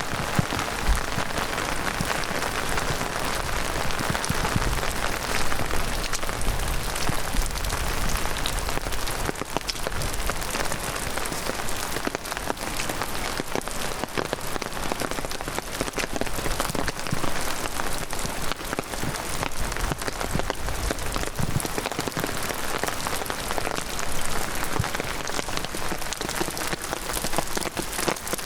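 Heavy rain falling steadily, a dense patter of drops striking the ground and leaves.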